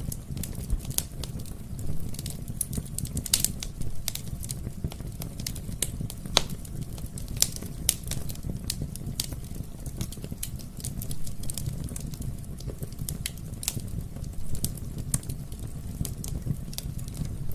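Wood fire crackling in a fireplace: many sharp, irregular pops and snaps over a steady low rumble of flame.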